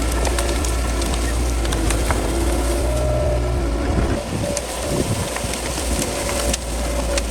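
Crawler bulldozer's diesel engine running steadily under load, with sharp clicks and cracks from the tracks and the brush it is pushing through. The engine's low rumble turns more uneven about four seconds in.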